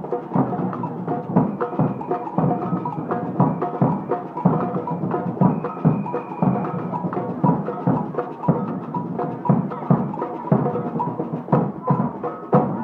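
Marching band playing in a street procession, drums beating a steady rhythm about twice a second under sustained instrument tones.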